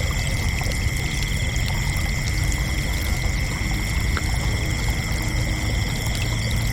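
Crickets chirping in a steady chorus: several overlapping high trills held at different pitches, one of them finely pulsed, over a constant low rumble.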